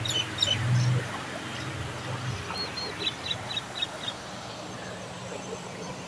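A small bird gives a quick run of short, high chirps about two and a half seconds in, lasting roughly a second and a half, over the steady rush of a fast-flowing river.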